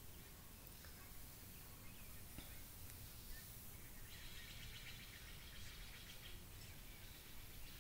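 Faint outdoor ambience with soft high bird chirping, or a trill, for about two seconds in the middle.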